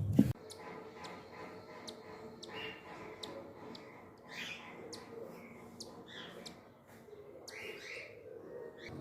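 Cockatiel chick giving short raspy calls, four or five of them a second or two apart, among many thin quick chirps; a bump sounds right at the start.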